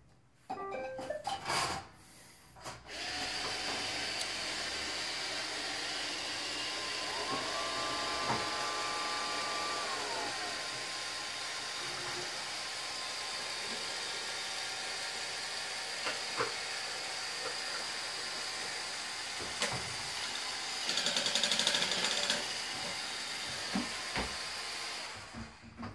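iRobot Roomba 620 robot vacuum running, its motor and brushes making a steady whir with a high whine on top. The whir starts about three seconds in after a few knocks and cuts off suddenly near the end.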